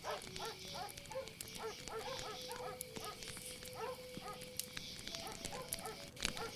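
Night-time chorus of many frogs calling, with short overlapping croaks throughout and a few longer held trills, over a steady high insect hiss.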